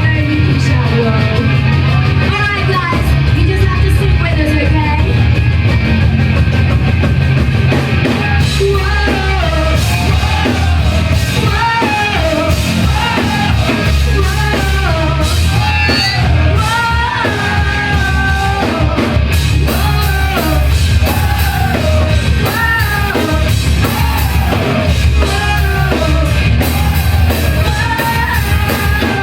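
Live rock band playing loud, bass-heavy music, with a singer's voice rising and falling over it.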